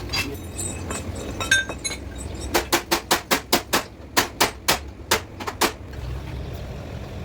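Hammer striking metal: a quick run of about fifteen blows, roughly five a second, with a short break partway through, after a few lighter metallic clinks.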